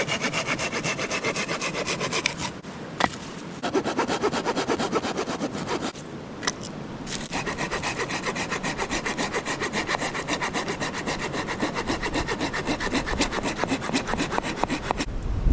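Hand saw cutting through firewood in fast, even back-and-forth strokes, about five a second. The strokes come in three runs with two short pauses, and there is a single knock in the first pause.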